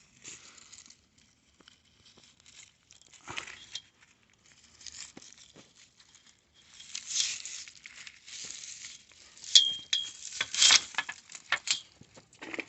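Irregular rustling, crinkling and crackling handling noise with scattered sharp clicks, busier in the second half, and a short high squeak about halfway through the busy part.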